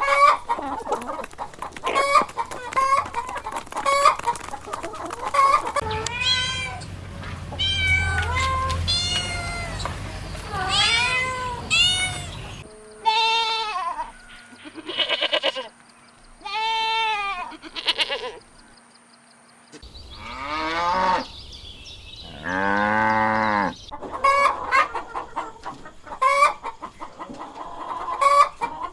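A string of animal calls spliced from several recordings: quick chattering calls, then repeated rising-and-falling hoots and cries, with the background changing abruptly between clips.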